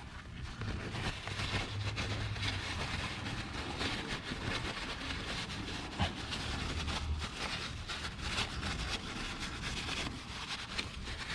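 Hand cleaning of a metal engine part: continuous irregular scrubbing and wiping noise with small clicks of handling, and one sharper knock about six seconds in.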